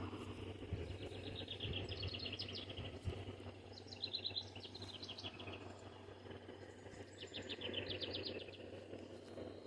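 A songbird singing three short trills of rapid repeated notes, over faint outdoor background and a low steady hum.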